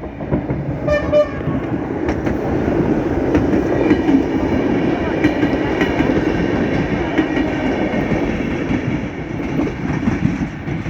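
A train passing close by, with a steady rumble and the clatter of its wheels over the rail joints. A brief horn sounds about a second in.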